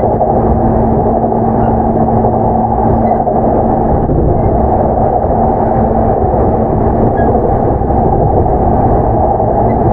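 Running noise inside a JR East E233 series 7000 subseries electric train's motor car, which has Mitsubishi IGBT-VVVF traction: a steady, loud rumble of wheels on rail under way. A steady low hum fades out about six seconds in.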